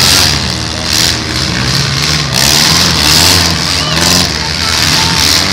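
Several demolition derby cars' engines running and revving unevenly, with a few sudden knocks.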